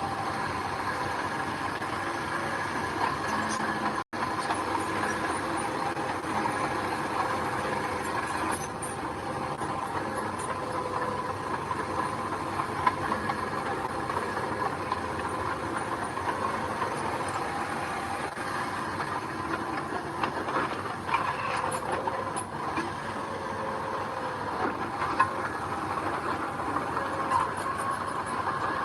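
Bulldozer at work: its diesel engine running steadily under a high whine, with scattered metallic clanks and rattles from the machine.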